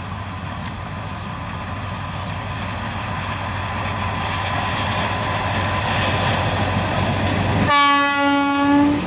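Diesel locomotive of a passenger train passing close by, its engine rumble and wheel noise growing steadily louder. About a second from the end comes one loud, steady horn blast lasting just over a second.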